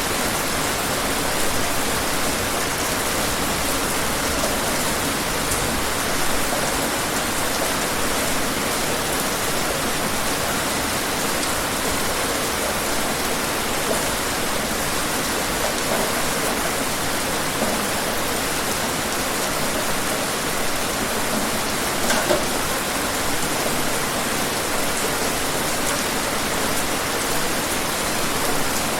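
Steady rain falling, a dense even hiss with scattered individual drop impacts.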